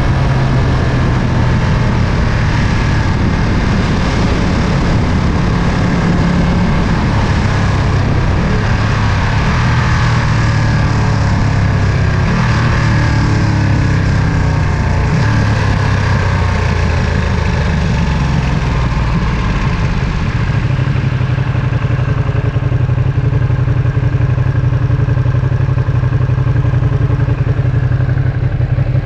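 Ducati Panigale V2's V-twin engine running on the road, its pitch rising and falling with changing revs, then holding a steady note for the last third.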